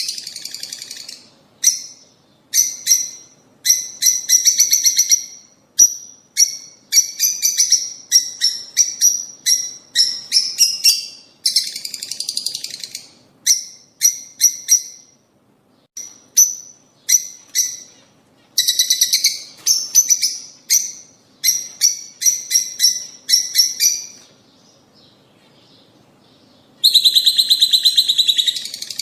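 Lovebirds chattering in quick runs of short, shrill chirps. A quiet pause of about two seconds comes near the end, followed by a loud burst of chatter.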